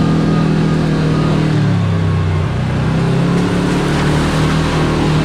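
Kawasaki Teryx KRX4 1000 side-by-side's engine running on the trail, with tyre and trail noise. Its pitch drops about one and a half seconds in as the throttle eases, then rises again about a second later.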